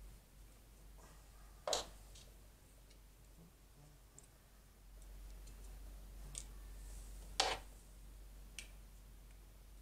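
Scattered small clicks and two sharper knocks, one about two seconds in and one near the middle, from hand work with small parts and tools, over a faint steady low hum.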